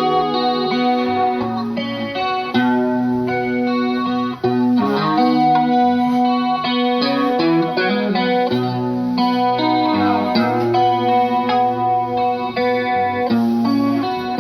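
Live band playing an instrumental passage led by guitar with effects, with low sustained notes underneath.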